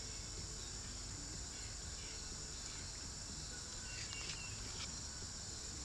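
Steady evening insect chorus, a continuous high-pitched trill, with a few faint ticks about four seconds in.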